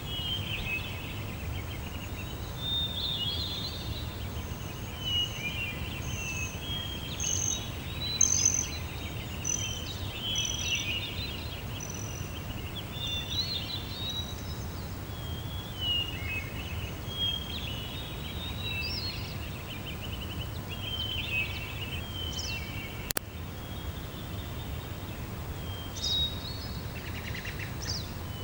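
Several birds singing and calling with many short chirps throughout, over a steady low rumble. One sharp click about three-quarters of the way through.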